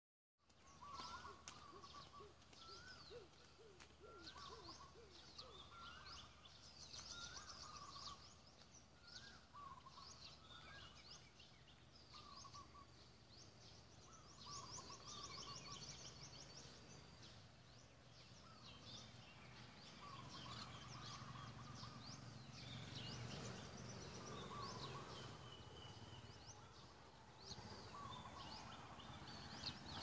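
Faint birdsong from several birds: quick high chirps and trills, with one bird repeating a short, lower call about every second or so through the first half. A faint low hum runs underneath and grows a little stronger in the second half.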